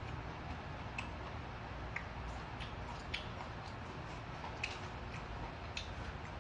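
Close-miked chewing of cold yangjangpi salad: a few scattered short wet smacks and clicks of mouth and chopsticks, over a low steady hum.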